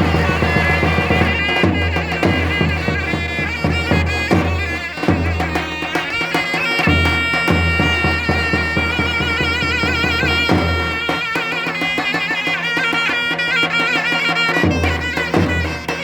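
Davul and zurna playing Turkish folk music: the zurna's shrill, reedy melody with wavering ornaments over the steady strokes of the big davul drum.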